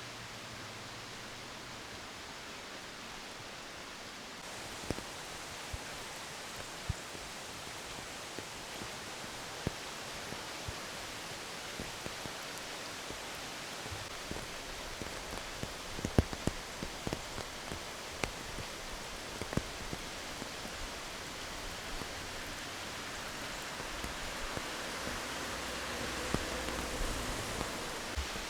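Rain falling steadily, with scattered sharp ticks of single drops striking close by, busiest in the middle; the hiss thickens near the end.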